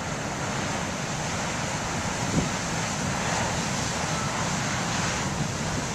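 Heavy surf breaking and washing in a continuous rushing noise, mixed with strong wind blowing across the microphone. A brief knock about two and a half seconds in.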